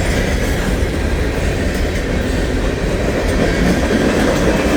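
Freight train of covered grain hopper cars rolling past close by: a steady, loud rumble of steel wheels on the rails.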